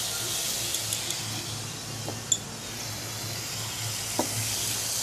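Green vegetables sizzling in a hot wok, with a few light clinks against the wok, the sharpest a little over two seconds in.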